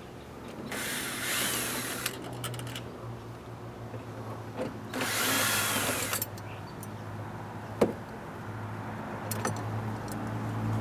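Cordless drill/driver running in two short bursts, about a second in and again about five seconds in, backing out the Torx screw that holds the inner door handle. A single sharp click comes near the end.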